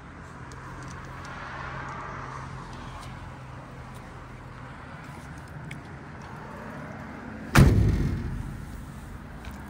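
A heavy vehicle door slamming shut once, about three-quarters of the way through, with a booming ring-down, over a steady low hum that fades out about halfway.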